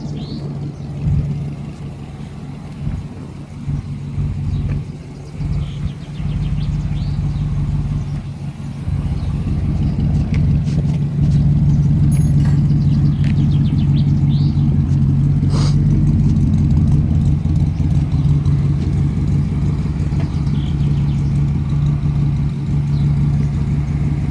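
1955 Mercury's V8 running through loud mufflers, uneven at first, then from about nine seconds in a louder, steady fast idle. A single sharp click about two-thirds of the way through.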